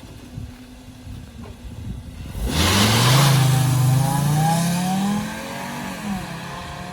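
Volkswagen Jetta's 2.5-litre five-cylinder engine starting about two and a half seconds in. It catches, its speed rises for a couple of seconds, then it settles back to a steady idle.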